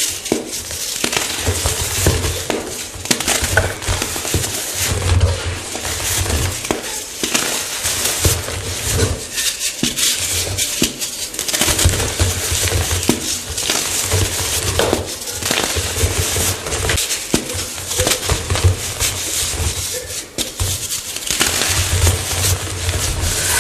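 Fresh chalk blocks being crushed, a continuous run of crunching and crackling.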